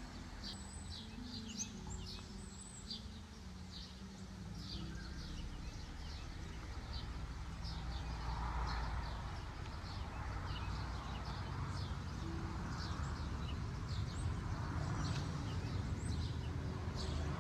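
Small birds chirping in short, high calls scattered throughout, over a steady low rumble of outdoor background noise.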